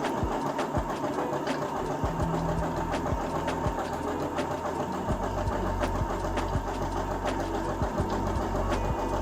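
Electric sewing machine running, stitching a zigzag finish along raw internal seam edges. Its motor's pitch shifts in steps as the speed changes, with faint regular ticks from the needle mechanism.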